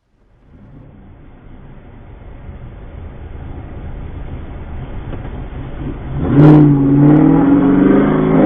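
Car engine and road noise growing steadily louder, then a sudden sharp noise about six and a half seconds in, followed by loud pitched engine sound rising and falling as the engine is revved.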